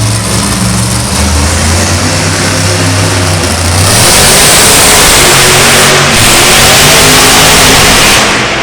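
Monster truck engine running, then revved hard about halfway in, much louder for around four seconds before easing off near the end.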